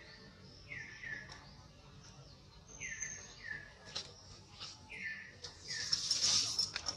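A bird chirping: pairs of short, falling high chirps repeating every second or two. About six seconds in, a louder harsh, hissy burst of sound rises over it.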